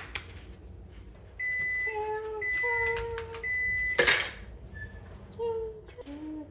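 Microwave oven beeping three times, each beep about half a second long with short gaps, the signal that its cycle has finished, followed by a sharp clack about four seconds in.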